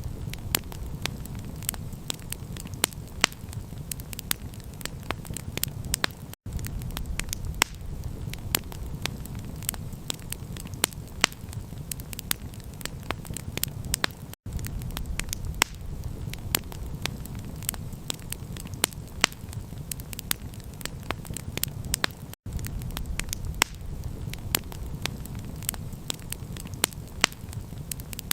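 Campfire crackling with many sharp pops and snaps over a steady low rumble. The sound cuts out for an instant three times, about every eight seconds.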